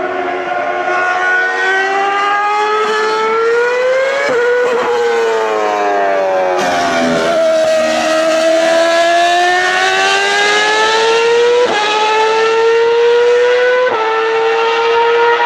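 A Ferrari racing car's engine at high revs, its pitch climbing and then dropping sharply at gear changes about four seconds in. It climbs again through the rest of the clip, with further sharp pitch steps near the end.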